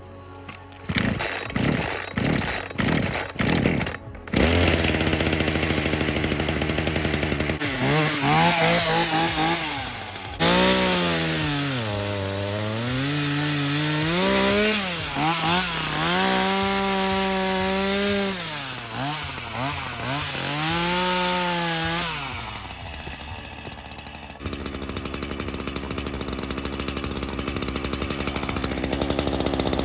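Chainsaw starting: a few short bursts in the first few seconds, then the engine catches and runs, revving up and down repeatedly before settling to a steadier run near the end.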